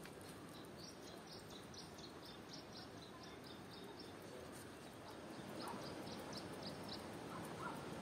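A small bird singing two quick runs of short, high chirps, about four a second, with a few lower call notes in the second half, faint over a steady low background noise.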